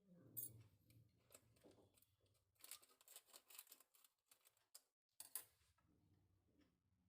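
Faint, irregular rustles and clicks over a low hum.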